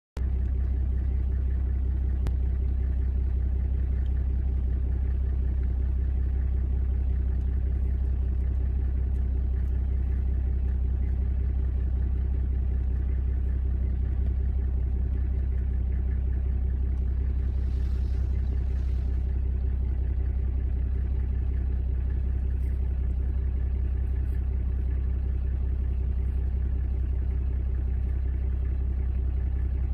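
A vehicle's engine idling with a steady low rumble and hum.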